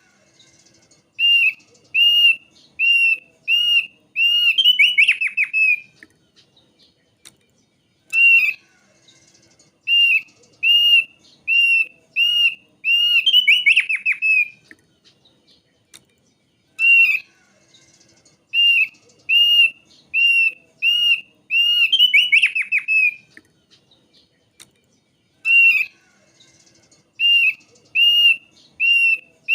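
Thick-billed white-eye singing: a run of six or seven evenly spaced, clear whistled notes that ends in a fast trill of falling notes. The same phrase repeats about every eight seconds.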